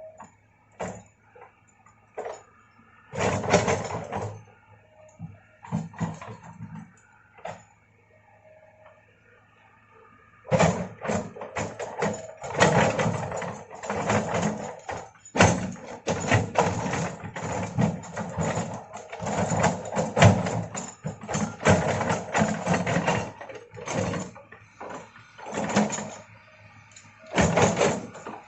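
Excavator working: the engine runs with a steady low hum under many irregular clanks and scraping crashes, sparse at first and coming thick and fast from about a third of the way in.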